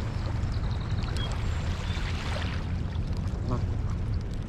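A low steady rumble, with a few faint short high calls from birds.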